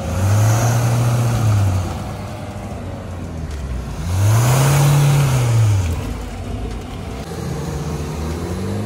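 Engine of an off-road 4x4 revved hard three times, each rev climbing and then dropping back, as the vehicle tries to drive itself out of deep sand.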